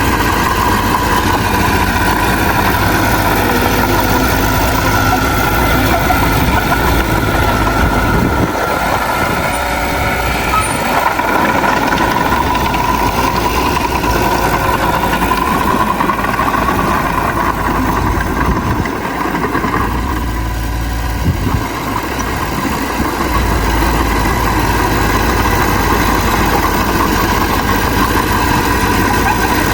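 Heavy diesel earthmoving machinery, a bulldozer working with dump trucks, running continuously. The deep rumble eases twice, about a third and two thirds of the way through.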